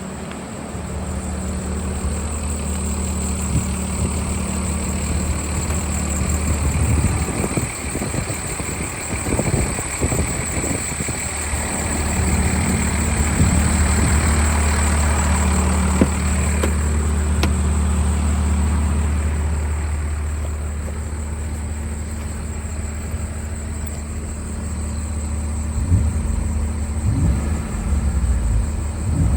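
The 3.7-litre V6 engine of a 2014 Ford F-150 pickup idling steadily, its low hum broken up for a few seconds about a quarter of the way in.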